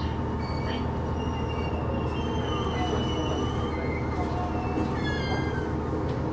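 KiHa E130-100 series diesel railcar moving slowly through station trackwork, heard from on board: a steady engine and running rumble with thin, high metallic squeals from the wheels. About five seconds in, a cluster of squeals slides down in pitch.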